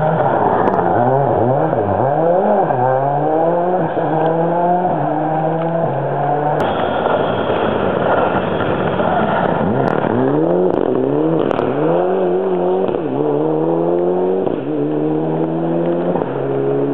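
Racing car engine at full throttle, its pitch climbing and dropping again and again as it shifts through the gears while drifting. There are two such runs of quick shifts, with a steadier, rougher stretch about midway.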